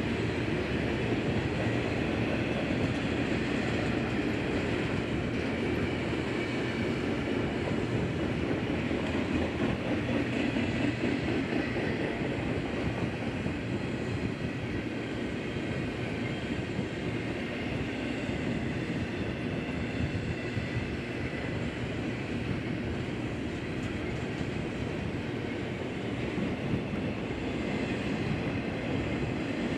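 BNSF freight train rolling past: the steady running noise of steel wheels on the rails, holding even throughout.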